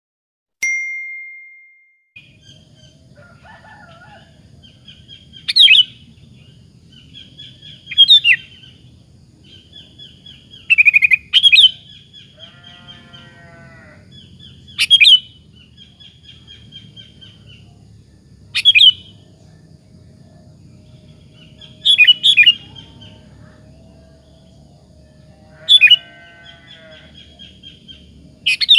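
Sooty-headed bulbul (kutilang) singing persistently: a loud, sharp call every few seconds, with softer chattering phrases in between, over a low steady hum. It opens with a single ringing tone that fades over about a second and a half.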